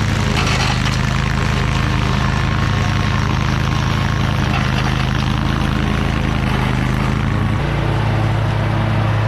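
Toro Titan Max zero-turn mower's engine running steadily while mowing, with a slight shift in engine note about seven and a half seconds in.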